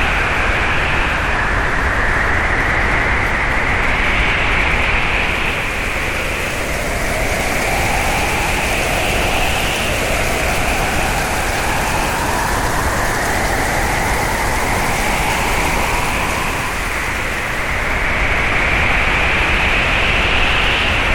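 Hurricane-force wind howling over a steady rush, its pitch rising and falling in slow swells every few seconds.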